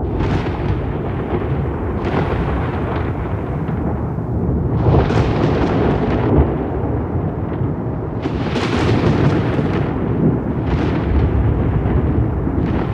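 Rolling thunder: a continuous deep rumble broken by crackling peals about every two to three seconds.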